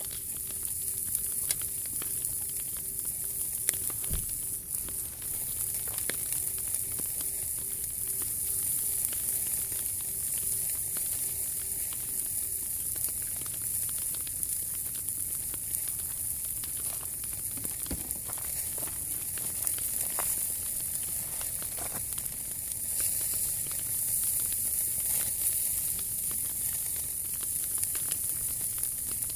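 Wood fire burning in a Pomoly T-Brick Ultra wood stove: a steady hiss with scattered sharp pops and crackles from the burning wood.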